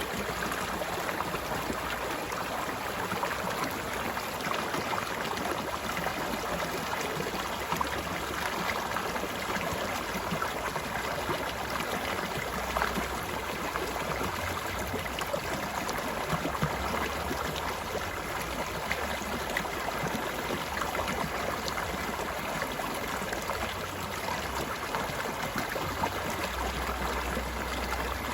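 Mountain stream flowing and babbling steadily, with many small splashes.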